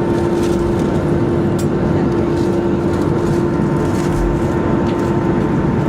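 Steady cabin drone of a Boeing 737-400 on the ground after landing: a constant rumble with a steady hum tone running through it. A few faint clicks sit on top.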